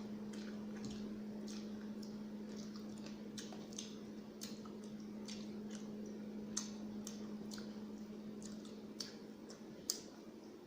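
Close-up eating sounds: wet mouth smacks and soft clicks from chewing rice and curry, coming irregularly, with a sharper click about two thirds through and another near the end, over a steady low hum.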